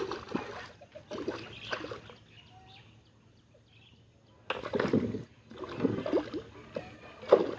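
Water splashing and sloshing in several uneven bursts, with a quieter stretch in the middle and a sharp splash near the end.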